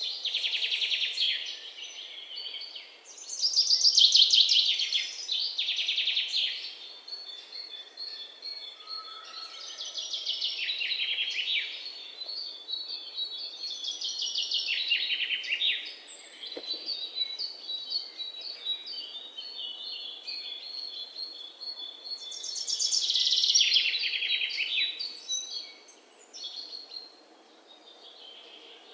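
Songbirds singing: loud bursts of fast trilled song every few seconds, with a long run of high, evenly repeated chirps through the middle.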